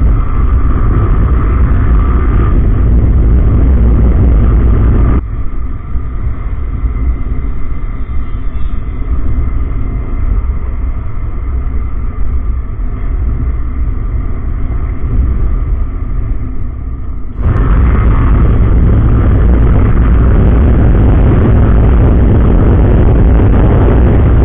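Heavy wind buffeting on the rider's microphone while a Yamaha R15M motorcycle is ridden at speed, its 155 cc single-cylinder engine running underneath. The rush eases from about five seconds in and comes back at full strength about seventeen seconds in.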